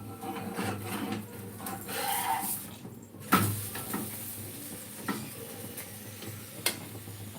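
Kitchen clatter: utensils knocking and scraping against dishes and a pan, with a few sharp knocks, the loudest about three seconds in.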